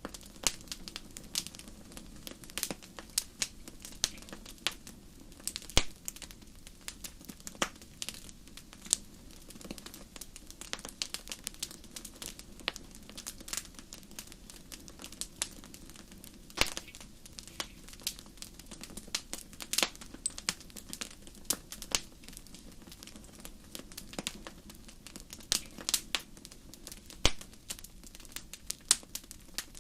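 Wood fire crackling, with frequent irregular sharp snaps and pops over a soft steady low rush of burning.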